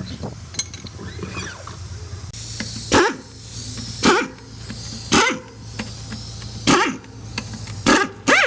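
A dog barking about six times, a second or so apart, each bark dropping in pitch, over the low steady hum of an engine running.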